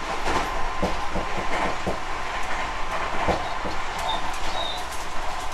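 Tobu 50050 series electric train running at speed, heard from inside motor car MoHa 52068: a steady rumble of wheels on rail with a steady high tone underneath, and irregular clacks as the wheels pass over the track.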